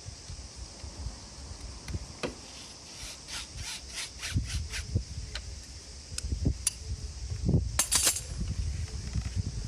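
Hand tools at work on the engine during a spark plug change: a run of quick, even clicks about three to five seconds in, like a ratchet wrench worked in short strokes, with scattered knocks and handling noise and one sharper click near the end.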